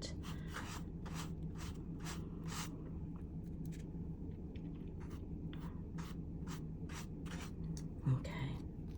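Short, repeated swipes of an ink-blending tool rubbing distress ink onto paper, about two to three strokes a second, over a faint steady hum.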